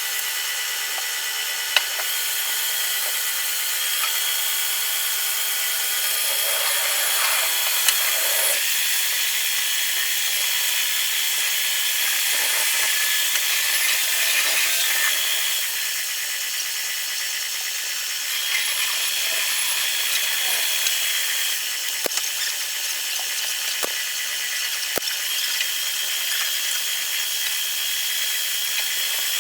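Power tool running steadily on pine wood, with a high whine over a rasping hiss, a few sharp clicks mixed in.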